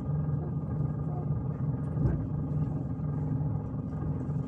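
Passenger train running, heard from inside the carriage: a steady low rumble with a constant hum and one brief knock about two seconds in.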